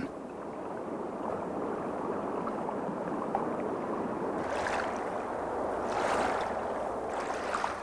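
Pond water lapping and rippling steadily, with two brief brighter swishes about five and six seconds in.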